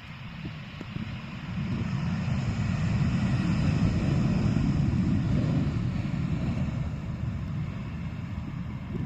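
Jet airliner on final approach passing the runway, a rumble that swells to a peak about four seconds in and then slowly fades, with some wind on the microphone.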